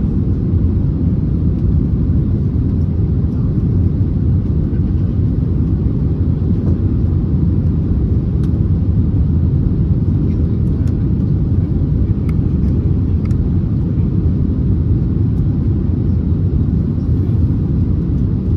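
Steady low rumble of cabin noise aboard an Airbus A321neo in flight, the sound of its engines and the airflow around the fuselage.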